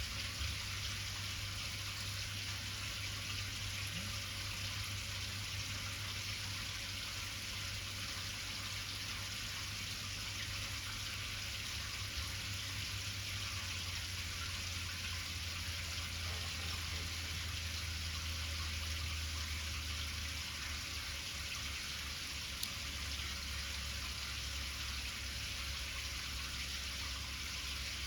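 Steady rushing hiss like flowing water, with a low rumble underneath.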